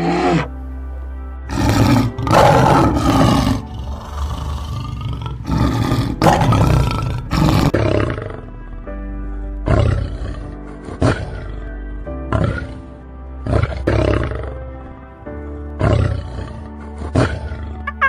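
A big cat roaring over background music: two long roars, then a run of shorter, sharper roars.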